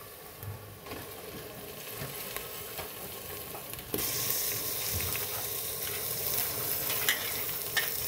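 Onions frying in hot mustard oil in an aluminium pressure cooker, sizzling, with a steel ladle clicking and scraping against the pot. About four seconds in, raw minced meat goes in and the sizzle turns suddenly louder and brighter.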